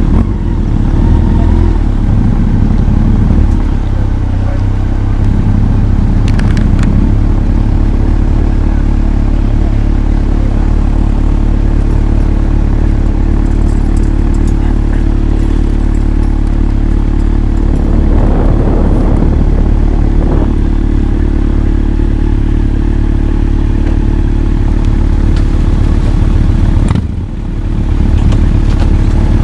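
Honda CB1300 Super Bol d'Or's inline-four engine running steadily while the bike is ridden. Near the end the sound dips briefly, then comes back.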